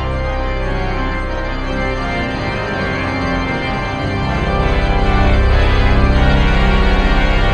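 Organ music: held chords that swell louder about halfway through, with a deep bass coming in.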